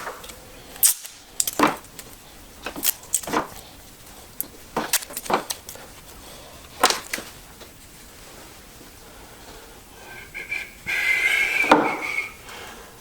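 Light clicks and taps of hands handling the spark plug wires on a GM 3800 engine. Near the end comes a longer, louder squeaky scraping sound lasting about a second and a half.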